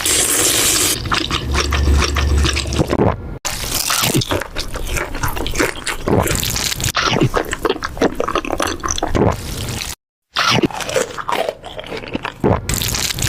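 Close-miked eating sounds: wet chewing, smacking and slurping with some crunching. They come in short spliced segments that cut off abruptly twice, once about a third of the way in and once near the end.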